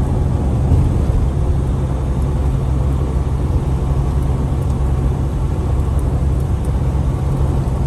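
Semi truck cruising on the highway: steady low engine drone with road and tyre noise.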